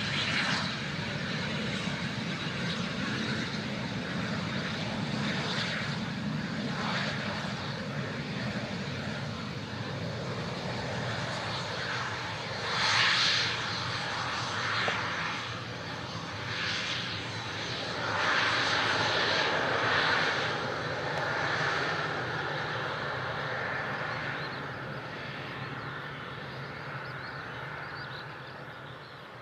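Twin turbofan engines of a Cessna Citation Bravo business jet during its landing: a steady jet noise that swells louder twice in the middle, then fades toward the end.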